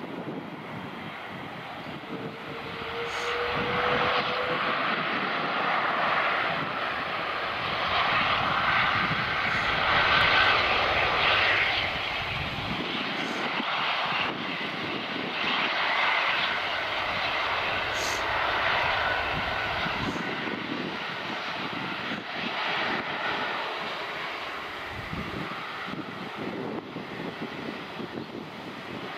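Jet airliner engines as an aircraft passes: a steady rushing noise that swells over several seconds, is loudest about ten seconds in, then slowly fades. A faint rising whine comes through a few seconds in.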